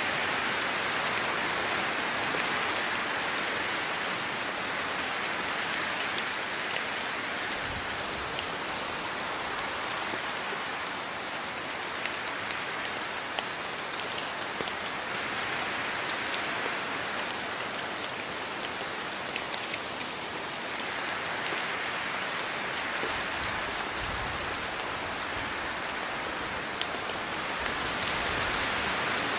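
Steady rain falling, a continuous hiss with scattered sharper drop ticks. The hiss slowly swells and eases every several seconds.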